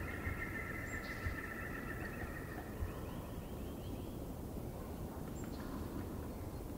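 Songbirds singing: a trilling song for the first couple of seconds, then a quick run of short repeated notes, over a steady low outdoor rumble with a few faint low thumps.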